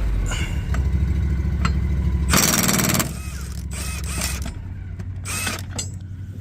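Impact wrench hammering in short bursts, the loudest lasting about half a second, loosening the mower blade bolts. A low engine hum underneath stops about halfway through.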